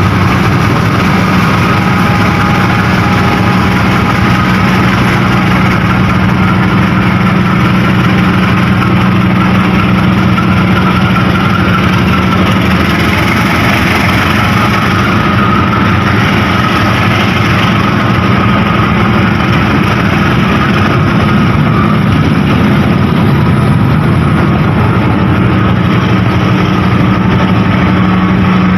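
A train's diesel engine running steadily at idle: a constant low hum with a fainter steady whine above it, with no change in level.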